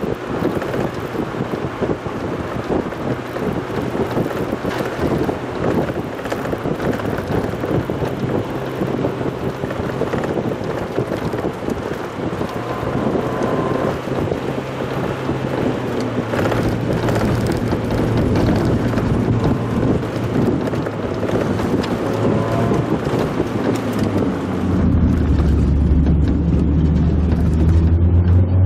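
Mazda Roadster driving on the road, its engine note under heavy wind and road noise. About 25 seconds in the engine gets louder, and near the end its pitch rises as the car accelerates.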